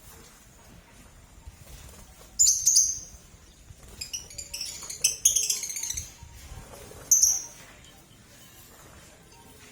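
Lovebirds giving shrill, high-pitched chirps in short bursts: one a couple of seconds in, a quick flurry around the middle, and another near the end.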